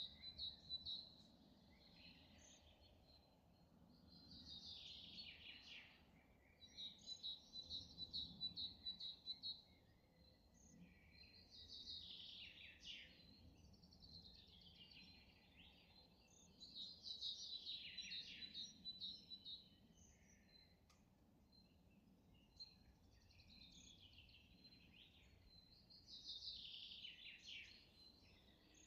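Songbirds singing faintly, in high, chirping phrases that recur every few seconds, some with a fast run of repeated notes, others sweeping downward.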